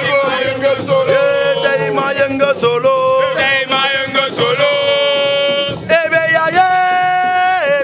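Men singing a chant with long held and sliding notes, over sharp percussive beats.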